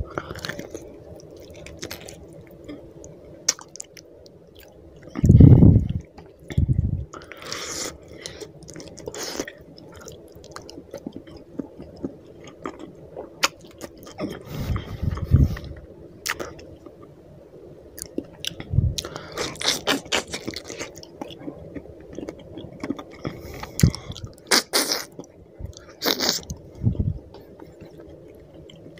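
Close-miked chewing and wet mouth sounds of a person eating fish curry and rice by hand, with many short sharp clicks and smacks. Heavy low thumps stand out about five and fifteen seconds in.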